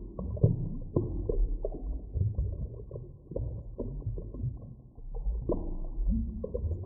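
Muffled deep-water ambience: a constant low rumble with frequent irregular clicks, knocks and short creaking sounds.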